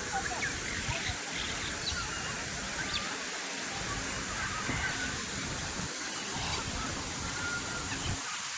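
Many birds calling at once: short scattered chirps and honking calls over a steady background hiss.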